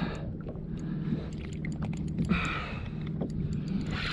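Fishing tackle being worked while fighting a strong false albacore from a kayak: irregular small clicks of the reel, over a steady low hum.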